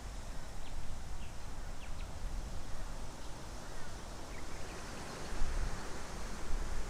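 Outdoor ambience of wind rumbling on the microphone, with a few faint, short bird chirps scattered through it.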